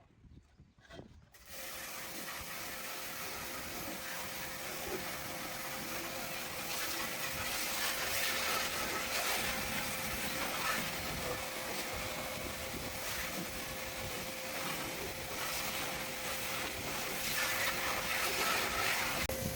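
A steady hiss that starts about a second in and runs on evenly, with a faint constant tone under it.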